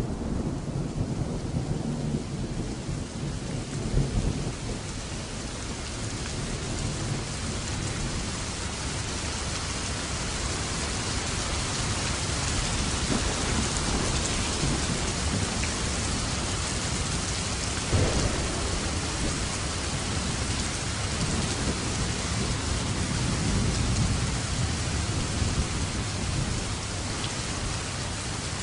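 Steady rain falling, with thunder rumbling low in the first few seconds and again near the end, and one sharp crack a little past the halfway mark.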